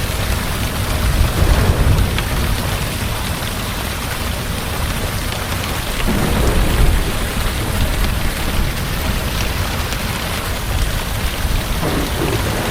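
Heavy rain falling steadily, with low rolls of thunder swelling twice, about a second in and again near the middle.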